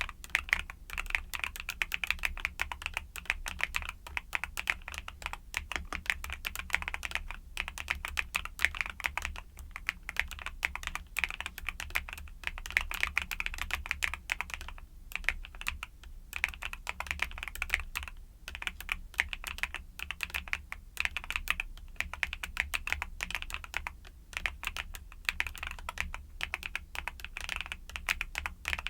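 Mechanical keyboard with YUNZII Cocoa Cream switches being typed on continuously: a fast, dense stream of key clacks, broken by a few brief pauses.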